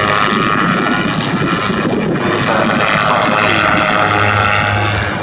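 Propeller-driven aircraft flying, its engine running with a steady, loud note.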